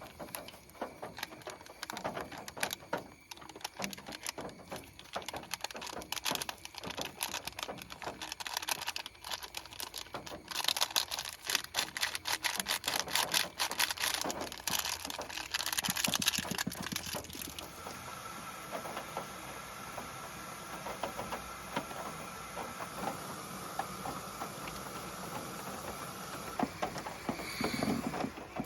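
Heavy rain pattering on a car's roof and body, heard from inside the car: a dense, irregular spatter of drops that grows louder for several seconds in the middle, then settles into a steadier hiss with a faint steady high tone.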